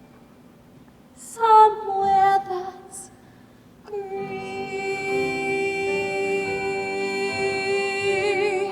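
A female voice singing a musical-theatre song. A short phrase falls in pitch, then comes a long held note that wavers with vibrato near the end, over soft accompaniment.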